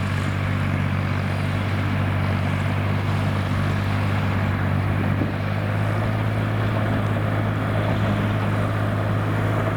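Kubota M5000 tractor's diesel engine running steadily under a constant throttle.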